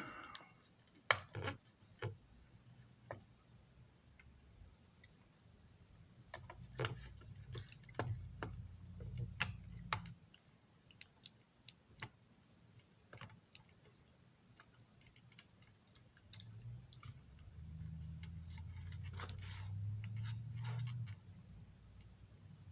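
Scattered light clicks and taps of small parts and tools being handled at a workbench. A low hum comes in twice, about a third of the way in and again near the end.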